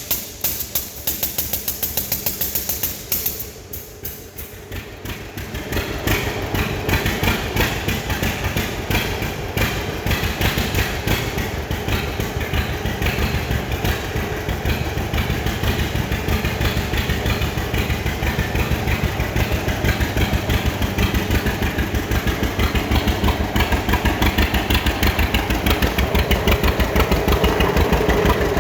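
Cold start of a 1945 John Deere BO Lindeman crawler's two-cylinder engine: it is turned over by a starting tool for the first few seconds, catches about five seconds in, and settles into running at idle with an even, regular firing beat that grows a little louder near the end.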